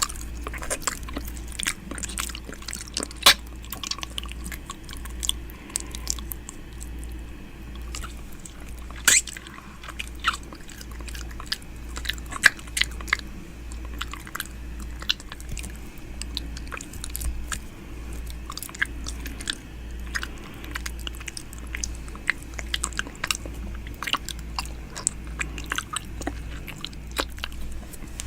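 ASMR 'ear eating' mouth sounds close on the microphone: wet lip smacks, tongue clicks and licking in a quick, irregular run of sharp clicks, over a low steady hum.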